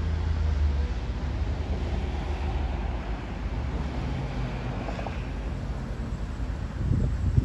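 Fire engine's diesel engine running as it pulls away, a low rumble that is heaviest at first and then fades.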